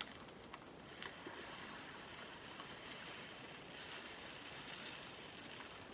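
Small resin diamond-painting drills being poured from a bag into a plastic storage pot: a faint, high hissing trickle that starts after a single click about a second in.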